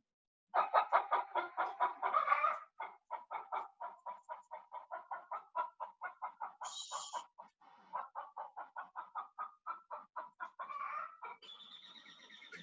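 Hens clucking in a fast, even run of about five clucks a second, played back as a farm-animal sound recording. Near the end a different high, steady chirring sound takes over.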